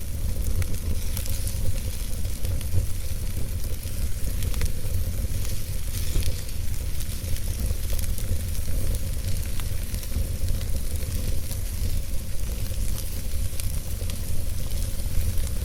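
Logs burning in a fireplace: a steady hiss and low rumble of the fire with scattered sharp crackles and pops from the wood.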